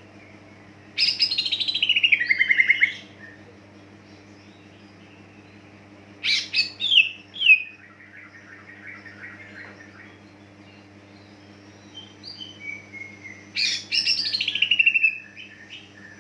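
Cucak ijo (green leafbird) singing: three loud phrases of rapid notes sliding down in pitch, with quieter twittering between them, over a steady low electrical hum.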